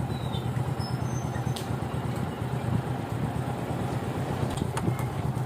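Motorcycle engine running steadily, with a fast even low pulse.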